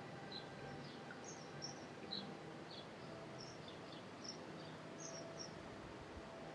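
Small birds chirping: short, high, scattered chirps, about a dozen, over a faint, steady outdoor background.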